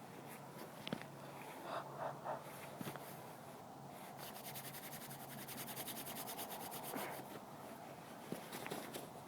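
Handling noise of a phone microphone clipped to a belt loop: fabric rubbing and scraping against it, with scattered small clicks. Around the middle comes a few seconds of fast, even, high-pitched ticking.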